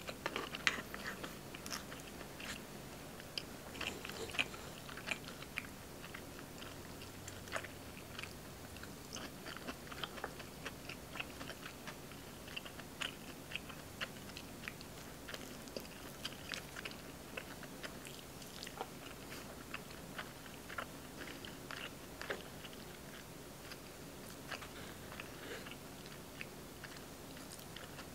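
Close-up eating sounds: a person chewing and biting food, with many small crunches and soft clicks scattered irregularly through, from mouthfuls picked out of a wooden lunch box with wooden chopsticks.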